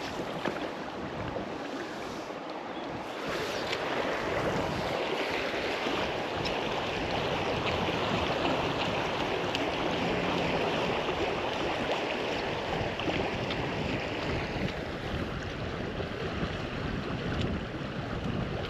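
Steady rushing of flowing river water, a continuous even wash that grows slightly louder a few seconds in.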